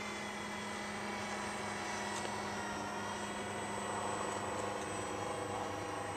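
Radio-controlled Airbus A380 model flying, its engines giving a steady whine made of several tones that drift slightly in pitch.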